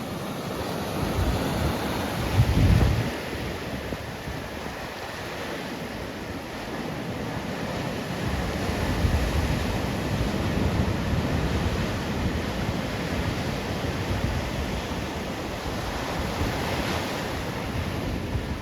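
Ocean surf washing onto the beach in slow swells, with wind buffeting the microphone and a strong low gust about two to three seconds in.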